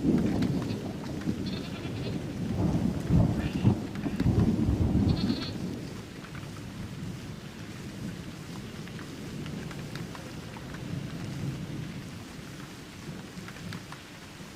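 Thunder rumbling over steady rain, the low rumble loudest for the first five or six seconds and then fading away to leave the rain alone. A few brief high calls sound over the rumble.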